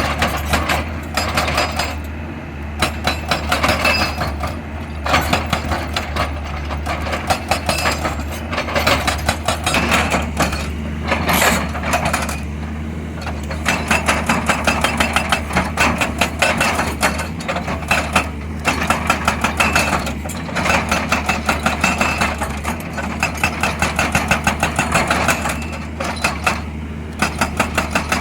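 XCMG XE200DA excavator working: its diesel engine runs steadily beneath a fast, rattling metallic clatter that comes and goes in spells.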